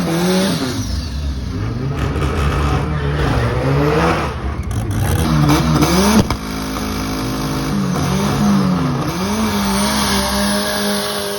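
Drag racing car engines revving hard and accelerating, the pitch climbing and dropping repeatedly with throttle and gear changes, with a sudden change in the sound about six seconds in.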